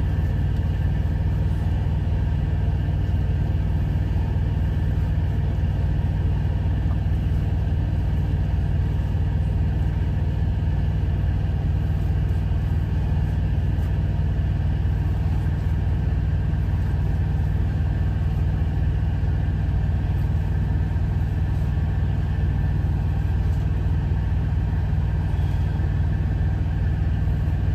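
Semi-truck's diesel engine idling: a steady low drone.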